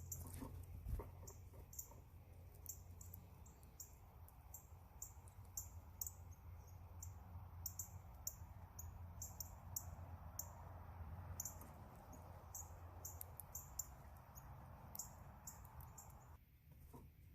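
Birds giving many short, very high chip notes, several a second in an irregular run, faint over a low steady hum. The run stops about 16 seconds in.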